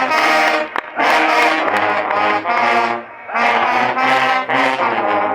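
Student brass band playing held chords in short phrases of about a second each, with low brass sounding deep notes under the trumpets and trombones.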